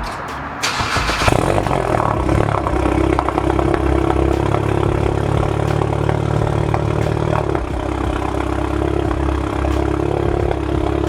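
VW Mk7 GTI's turbocharged 2.0-litre four-cylinder starting about half a second in and flaring up, then settling into a loud, steady high idle through an open exhaust with no catalytic converter and no muffler, only a resonator. The idle steps down lower about two-thirds of the way through.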